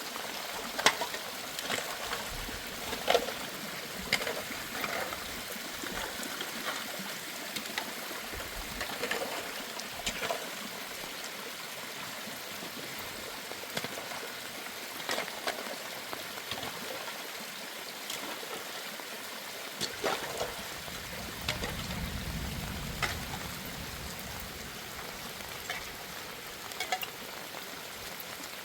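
Water running and trickling steadily, with scattered light knocks and clinks throughout. A low rumble comes in about twenty-one seconds in and lasts a few seconds.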